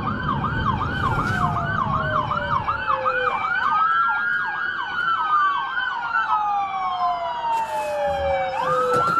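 Several police cruiser sirens sounding at once. One runs a fast yelp, about three sweeps a second, for the first few seconds, while others glide in slow wails. A low rumble sits under the opening seconds.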